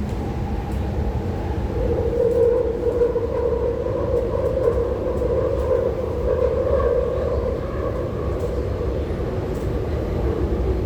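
MTR Tuen Ma line IKK-Train running between stations, heard from inside the car: a steady low rumble from the running gear, with a drawn-out whine that swells a couple of seconds in and fades again near the end.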